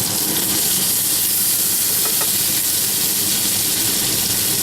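Breaded chicken breasts frying in a pan of oil and butter, sizzling steadily under freshly added tomato sauce.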